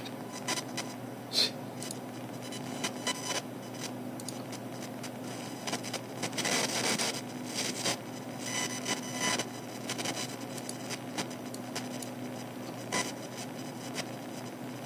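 Computer speakers turned up loud giving off a steady electrical hum with irregular crackling, buzzing bursts of static and clicks, interference noise that shifts with what the computer is doing. The loudest bursts come about halfway through and again a couple of seconds later.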